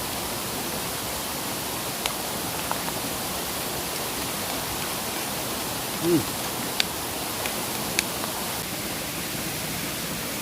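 Steady hiss of heavy rain falling, with a few sharp ticks now and then.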